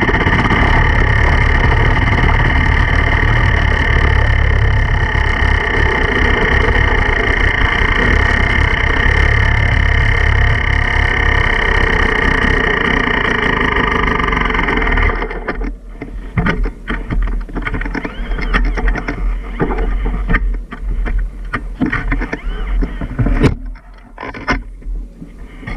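Enduro dirt bike engine running at a steady speed, cutting off suddenly about fifteen seconds in. After that come irregular knocks and rustling.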